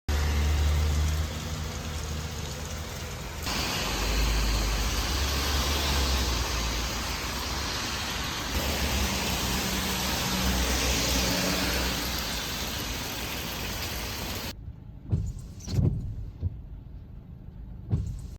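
Car driving, heard from inside the cabin: a steady road and engine rumble with tyre hiss. Near the end it gives way to a quieter stretch with a few knocks.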